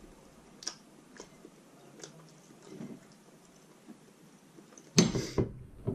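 Close-miked eating sounds of a person chewing roast chicken: faint wet mouth clicks, then a loud, brief noisy crunch about five seconds in and a shorter one just after.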